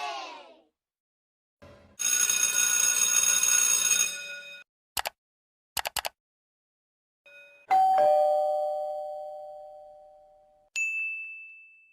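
A string of separate sound effects. A bright, shrill ringing lasts about two and a half seconds, then come a few quick clicks. A two-note ding-dong doorbell chime follows, high note then low, fading slowly, and near the end a short high ding.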